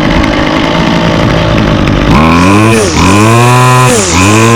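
Small two-stroke string trimmer engine running at a steady idle, then revved up and let fall back three times in quick succession from about two seconds in. It is warmed up and runs cleanly, picking up throttle readily.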